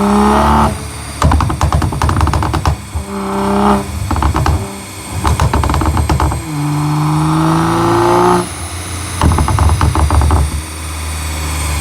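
Tuned Toyota Supra A90's turbocharged straight-six, breathing through a catless titanium exhaust, revved in short blips three times; after each rev the exhaust pops and crackles rapidly on the overrun, the bangs that go with its flame-outs. Near the end it settles to a steadier idle.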